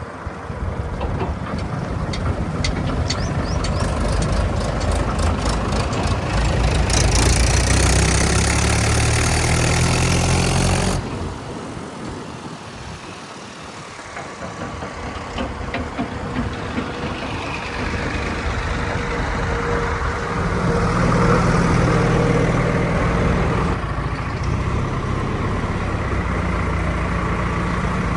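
Heavy diesel engine of working farm or earthmoving machinery running and revving under load, with a run of light clicks between about two and seven seconds in. The sound drops suddenly about eleven seconds in, then builds again toward the end.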